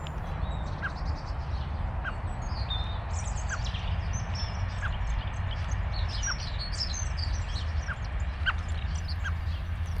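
Wild birds singing outdoors: quick high chirps and twitters in short phrases, busiest in the second half, with a soft short call note repeated about once a second, over a steady low rumble.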